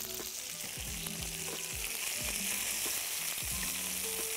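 Chicken breast frying in butter and avocado oil in a skillet, a steady sizzle with crackling.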